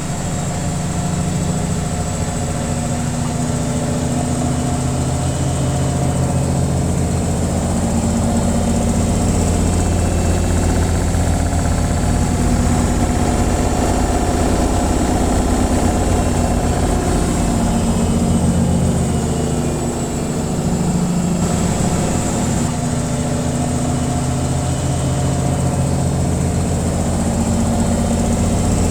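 Washing machine on its spin cycle: the drum spinning with a steady low hum and vibration, dipping briefly about twenty seconds in.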